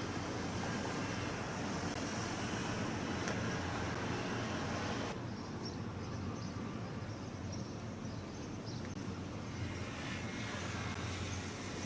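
Steady low engine rumble under a wash of noise; the higher hiss drops away abruptly about five seconds in.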